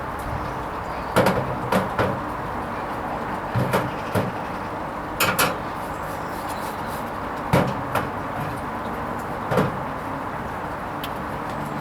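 Hoover Vision HVP16 washing machine running a delicate silks cycle: a steady hum with about ten short thumps and clunks in irregular groups as the drum turns the wet load.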